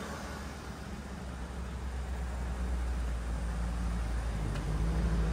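1998 Lincoln Mark VIII's 4.6 L 32-valve V8 idling steadily with a low rumble that grows gradually louder.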